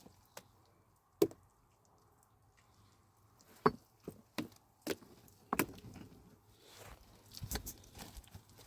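Sharp, irregular knocks, about six of them a second or so apart, with low background noise between.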